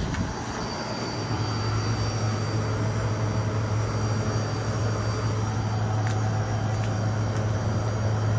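Central air conditioner unit running with a steady low hum and the rush of its fan, swelling a little over the first two seconds and then holding level.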